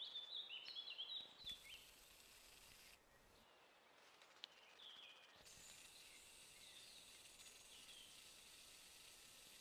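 Faint birdsong from a small songbird in woodland: a quick run of high chirping notes in the first two seconds and another short phrase about five seconds in, over a faint steady hiss.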